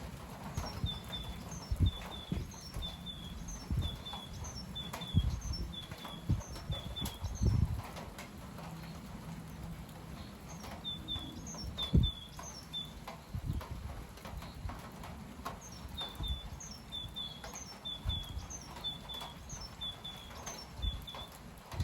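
Gusty wind, with irregular low thumps of wind buffeting the microphone, while a small bird sings a quick repeated two-note phrase in three runs.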